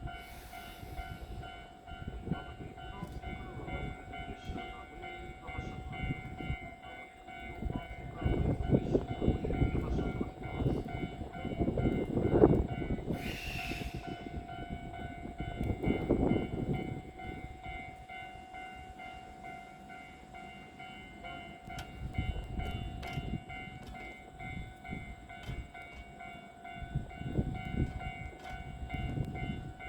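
An electric train at a station: low running rumble swelling and fading several times over a steady high hum, with a short sharp hiss of air about thirteen seconds in.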